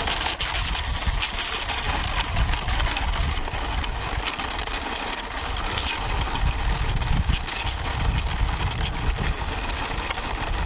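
A small toy truck pushed by hand along a rough wall: its plastic wheels rolling and scraping, with a steady rumble and many small clicks and knocks.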